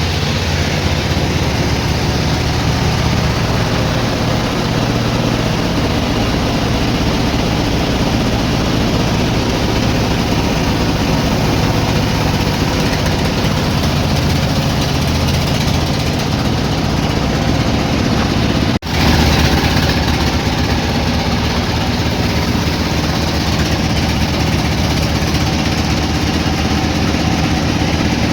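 Sawmill engine running steadily. A brief dropout about 19 seconds in, after which it comes back slightly louder.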